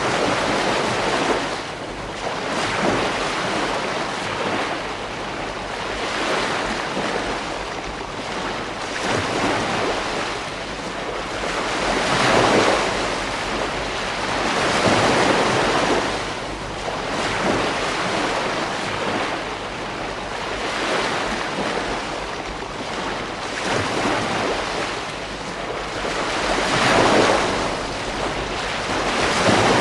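Beach waves breaking and washing up the shore: a continuous rushing surf that swells and fades every few seconds, with the loudest surges just under halfway through and near the end.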